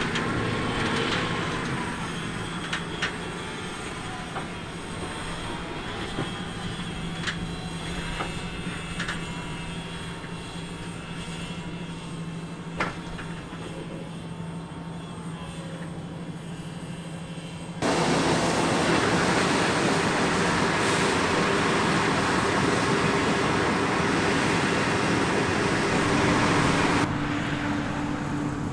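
Harvest machinery running: a steady engine hum with scattered clicks and rattles. About two-thirds of the way through it cuts suddenly to a much louder, rushing machine noise, which changes again abruptly near the end.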